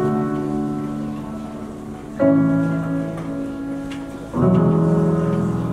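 Piano playing a slow introduction: three sustained chords, each struck about two seconds after the last and left to ring.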